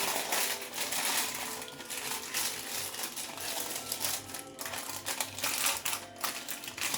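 Crinkling and rustling of a thin sheet being handled and pressed into a container: a dense, irregular run of small crackles and clicks.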